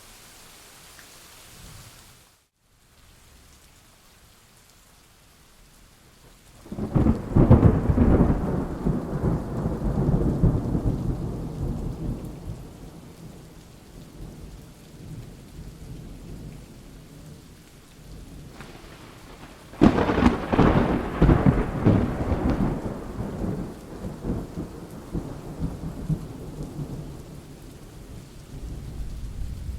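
Thunderstorm: steady rain with two loud claps of thunder, about seven seconds in and about twenty seconds in, each rolling and fading away over several seconds. It opens with a steady hiss that cuts out for a moment.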